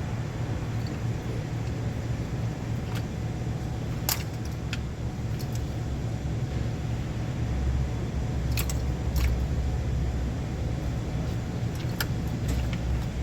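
A steady low motor hum, swelling a little in the middle, with scattered light metallic clinks of hand tools on engine parts.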